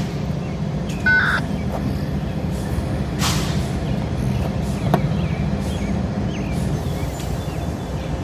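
Diesel locomotive engines of a BNSF freight train running with a steady low rumble. There is a short beep just after a second in and a brief hiss of air about three seconds in.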